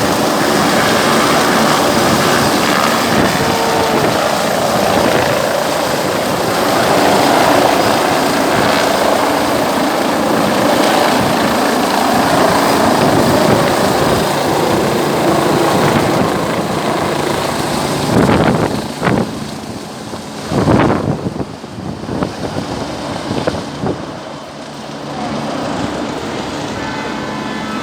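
Helicopter close by, its rotor and engine running loud and steady, with a few louder bursts about eighteen to twenty-one seconds in, after which the sound drops somewhat.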